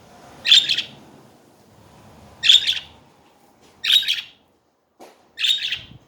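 Budgerigar chirping: four short, bright chirps spaced out by a second or two.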